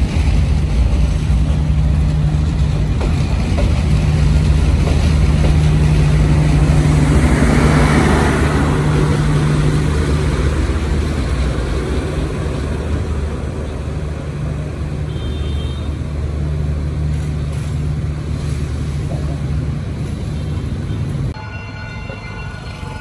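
Passenger coaches of a train rolling past on the rails with a steady low hum, the wheel and rail noise swelling for a few seconds in the middle. About 21 seconds in, the train sound drops away abruptly.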